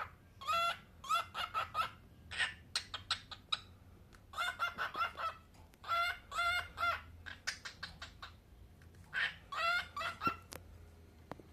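Cockatiel calling in runs of short, rapid chirps, several bursts with short pauses between them.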